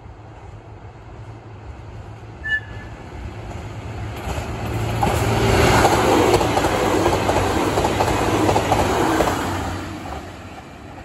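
Express electric train passing close by: its running noise and wheel clatter swell over a few seconds, hold loud, then fade away. A short high beep sounds about two and a half seconds in.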